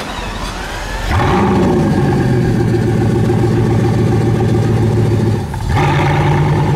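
Bugatti supercar engine running at a low level, then revved up about a second in and held at high revs. Near the end the revs drop briefly and rise again.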